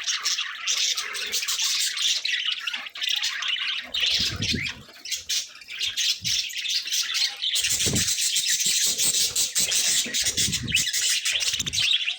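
Several budgerigars chattering and squawking continuously, with a few low thumps near the middle and toward the end.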